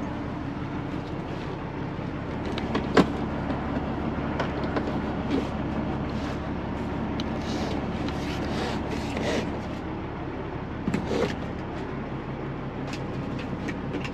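Steady low hum of the semi truck's engine idling, heard from inside the cab. A sharp click comes about three seconds in, and short rustles and knocks come in clusters near the middle and again about eleven seconds in, as things are handled around the cab.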